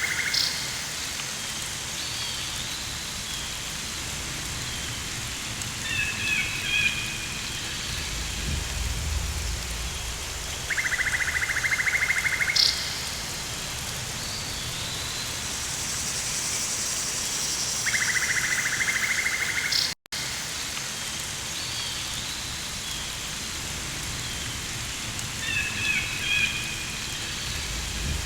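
Rainforest ambience: a steady hiss of rain, with a rapid pulsing buzz twice, short bird-like chirps twice and a low rumble. The whole track cuts out for an instant about two-thirds of the way through.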